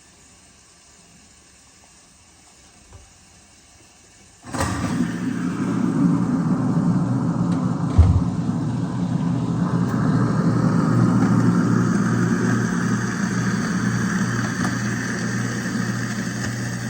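Kitchen garbage disposal switched on about four and a half seconds in and then running steadily with a motor hum, a single knock about eight seconds in.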